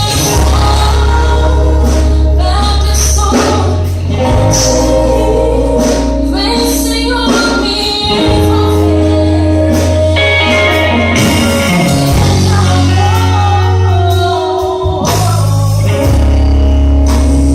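Live gospel worship band with bass, drums and keyboard or guitar playing the song, with some sustained singing over it.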